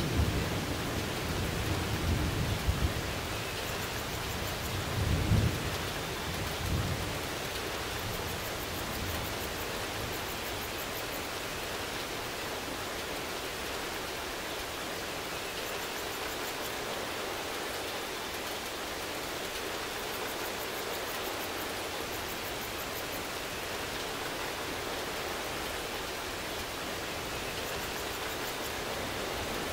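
Steady rain falling, with a few low rumbles of distant thunder in the first several seconds that die away, leaving an even downpour.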